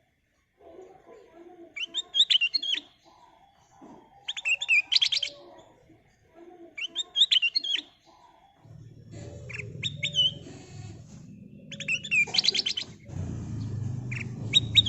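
Kutilang emas (a bulbul) singing short, bright, whistled phrases about every two and a half seconds. A low steady rumble comes in about halfway through and grows louder near the end.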